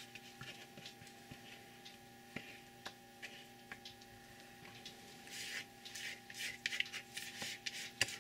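Faint scattered clicks and light scraping of a utensil against a container, with two brief rustling scrapes in the second half, over a steady faint hum.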